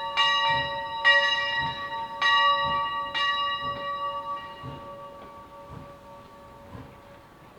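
Steam locomotive bell ringing: four strokes about a second apart, then the last stroke rings on and fades away.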